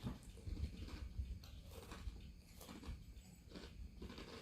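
Close-up chewing of Flamin' Hot chips topped with whipped cream, with a string of short, faint crunches about a second apart.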